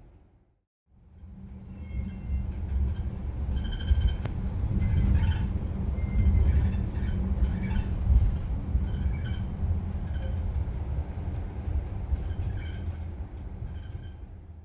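Koleje Mazowieckie regional train running on the line: a steady low rumble of wheels on rails, with short high-pitched squeals and ticks scattered through. It fades in about a second in and fades out near the end.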